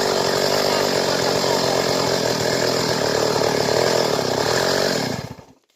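Stihl chainsaw running steadily at speed, then stopping about five seconds in.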